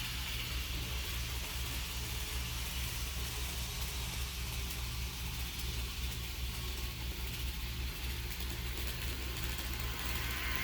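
HO scale model train running on the track: a steady low electric hum with a hiss of wheels rolling on the rails.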